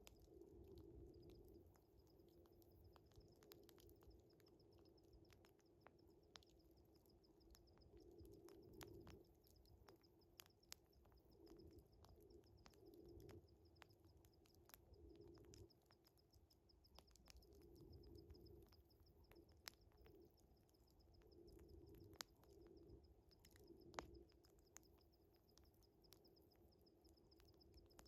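Faint wood fire crackling, with scattered sharp pops, over a steady high trill of night crickets. A low murmur swells and fades at intervals.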